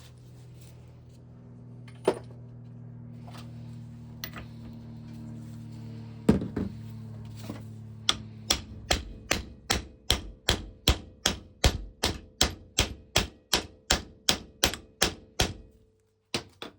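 Hammer tapping on metal: a few single blows, then an even run of strikes about two to three a second through the second half. Underneath is a steady low hum that stops near the end.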